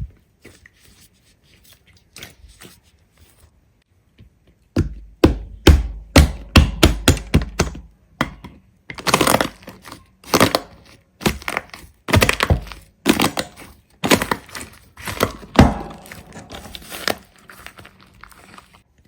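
A quick run of sharp thunks and cracks that begins about five seconds in and keeps going in irregular groups for about twelve seconds.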